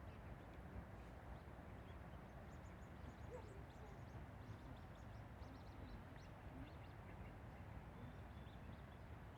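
Faint, rapid, high-pitched peeping of coot chicks begging to be fed, clustered from about two and a half to seven seconds in, over steady low background noise.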